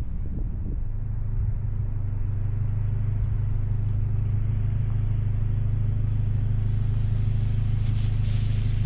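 2020 Subaru Impreza's flat-four engine and aftermarket axle-back exhaust droning steadily at a constant cruising speed, with a haze of road noise underneath.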